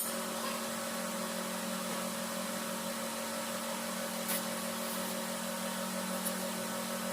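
Steady machine hum with an even hiss and two unchanging tones, broken by a couple of faint clicks.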